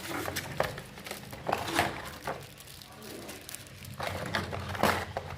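Rustling and crinkling with scattered clicks, as of earphone packaging being handled and opened, quieter for a moment in the middle.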